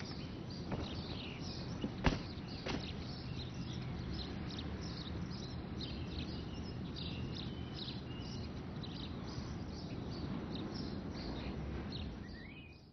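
Quiet outdoor background with birds chirping throughout. A few sharp clicks or knocks come in the first three seconds, the loudest about two seconds in, and the sound fades out at the end.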